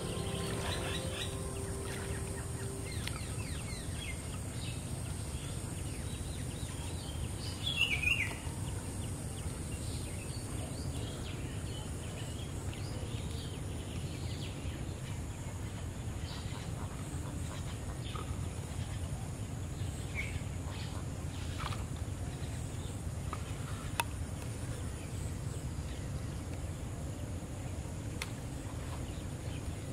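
Outdoor rural ambience: a steady low rumble with scattered bird chirps. The loudest is a quick falling call about eight seconds in.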